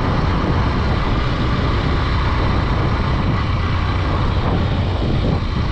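Honda Dream 110's single-cylinder four-stroke engine running at a steady cruise, with loud, even wind rush over the helmet microphone.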